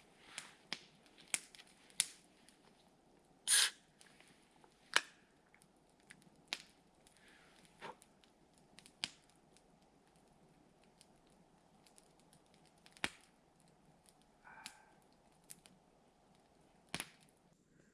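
Wood campfire crackling: scattered sharp pops at irregular intervals over a faint hiss, with one longer crackling burst about three and a half seconds in.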